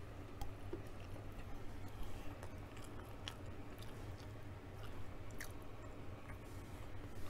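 Close-up eating sounds: chewing with small, sharp, wet mouth clicks scattered irregularly, over a faint steady low hum.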